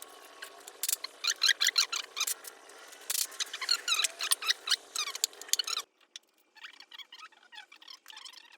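Irregular metallic clicking and small squeaks from hand tools working on engine parts, busy for about six seconds and then sparser and quieter.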